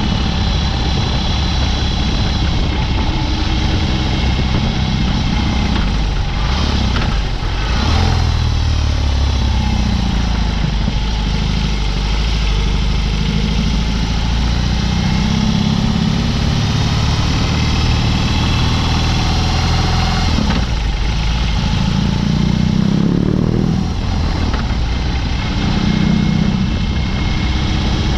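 BMW R18's 1.8-litre boxer twin running through a Dr. Jekill & Mr. Hyde exhaust while riding. The engine note falls and climbs again several times as the throttle opens and closes.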